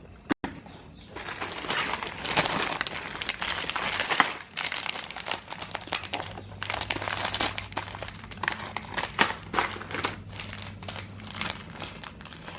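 Small plastic snack packets crinkling and crackling as they are torn open and handled, with dense, irregular crackles. There is a sharp click just after the start and short lulls about four and six and a half seconds in.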